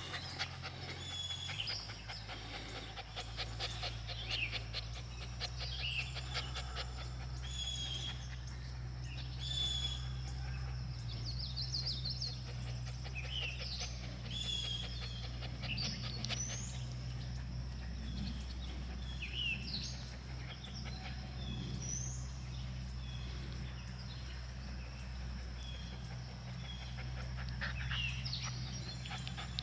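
Small birds chirping on and off, short high calls scattered throughout, over a steady low rumble.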